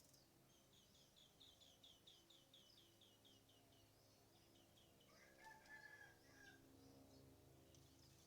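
Faint birdsong: a rapid series of high chirping notes for about three seconds, then a rooster crowing once, about five seconds in.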